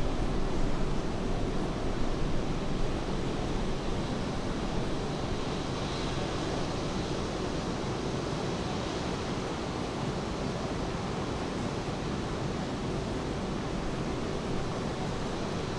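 Steady, even rush of rain mixed with ocean surf. It is a little louder in the first couple of seconds, then holds level.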